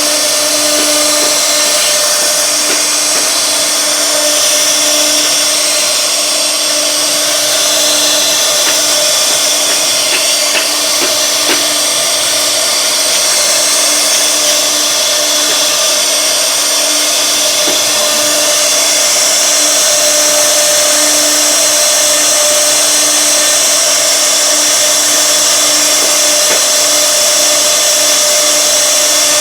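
1325 CNC wood router's spindle running steadily at one pitch while it cuts wood, with a constant tone over a hiss of cutting.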